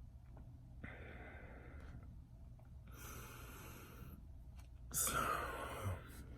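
A person breathing out heavily three times, hissing breaths close to the microphone, the last and loudest about five seconds in.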